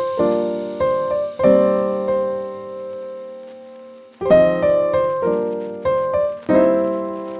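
Background music: piano chords and notes, one chord held and dying away for a couple of seconds before new notes come in.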